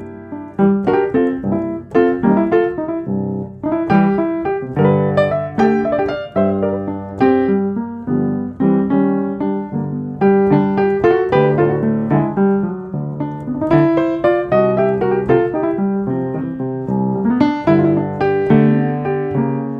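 Solo piano music: a calm piece played in struck notes and chords that ring and fade.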